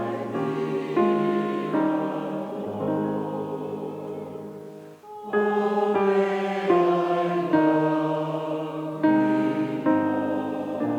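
Four-part choir singing a slow sung prayer in held chords that change every second or so, with a brief break in the singing about five seconds in.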